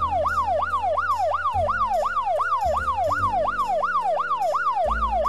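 Police car siren in a fast electronic yelp, its pitch sweeping up and down about three times a second.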